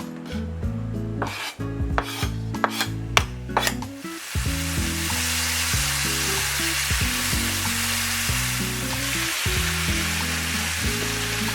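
Over soft background music, a few sharp knocks in the first few seconds, then a steady sizzling hiss from about four seconds in, like food frying in a pan.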